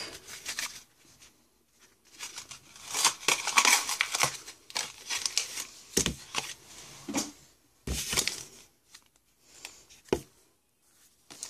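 Foil Pokémon booster pack wrapper crinkling and being torn open, in several bursts with a few sharp knocks between them.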